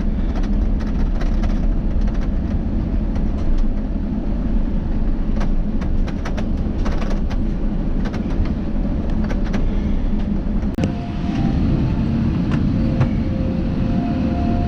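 Steady low rumble heard inside an Airbus A350-900 cabin, with light rattles and clicks from the cabin fittings. A little after ten seconds in, the sound briefly drops and shifts, and a few faint steady tones come in.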